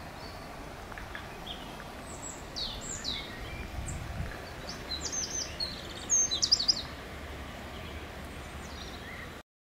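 Small birds calling: scattered short, high, falling chirps, with a louder quick run of calls about six seconds in, over a steady low rumble of outdoor background noise. The sound cuts off abruptly near the end.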